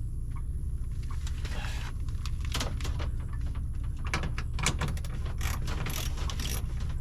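Tools and metal parts clicking and clinking as the bolted dump-valve assembly on an RV's waste tank is taken apart, over a steady low hum. The clicks come irregularly, mostly in the second half.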